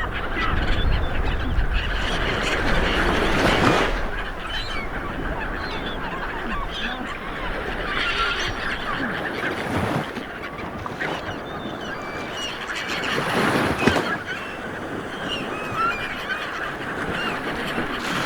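A flock of birds calling over and over in many short honking calls. Ocean waves wash in underneath, swelling now and then.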